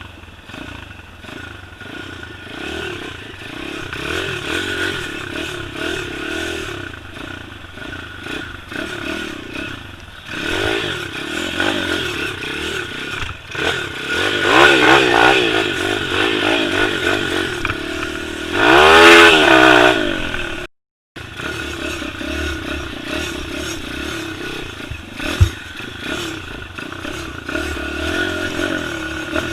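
Small pit bike engine running on a ride, its pitch rising and falling with the throttle, with the loudest rev about two-thirds in. The sound drops out completely for a moment just after, then the engine is heard again.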